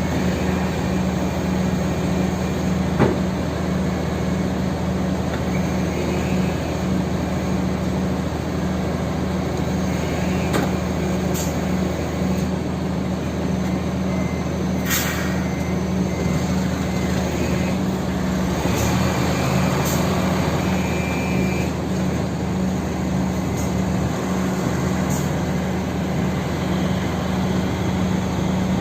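Mitsubishi Fuso Super Great truck's diesel engine running steadily, with a few short hisses and clicks over it, the loudest hiss about 15 seconds in.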